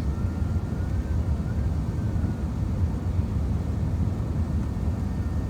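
Airbus A380 airliner on approach: a steady, even low rumble of engines and airflow, with a faint wavering whine above it in the first half.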